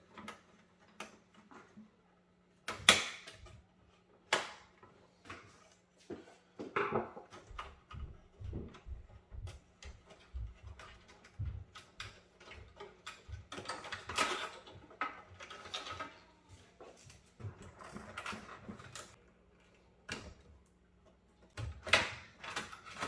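Hands working on a desktop PC during a teardown: irregular clicks, knocks and scraping of plastic and metal parts being handled, with a sharp knock about three seconds in and another near the end. A faint steady low hum runs underneath.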